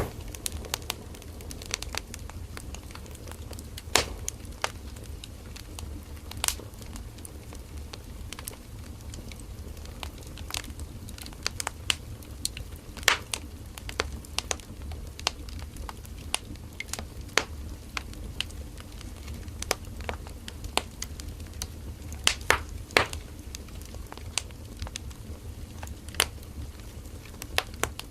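Firewood burning in a campfire: irregular sharp crackles and pops over a steady low rumble of the flames.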